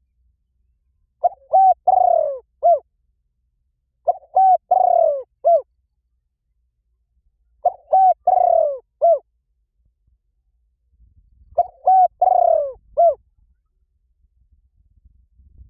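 A dove's cooing song, repeated four times: each phrase is two short coos, a longer falling coo and a short closing coo. It is the kind of call played as a lure recording.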